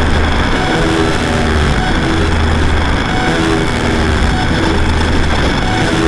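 Electronic drone-noise music: a loud, steady low hum under a dense wash of distorted noise, with short pitched figures recurring about every second and a half like a loop.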